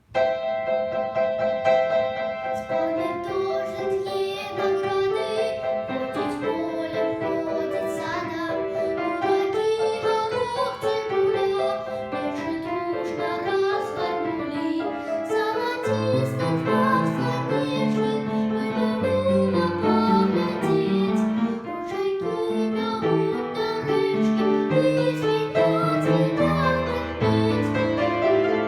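A young girl singing a children's song with piano accompaniment. Deeper bass notes join the accompaniment about halfway through.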